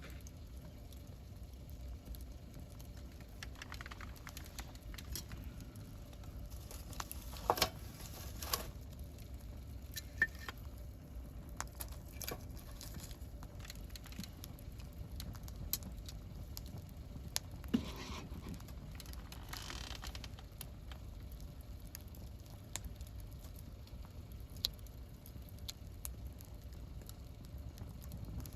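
Wood campfire burning and crackling, with scattered sharp pops, a few louder ones clustered about a third of the way in and again past the middle, over a steady low rumble.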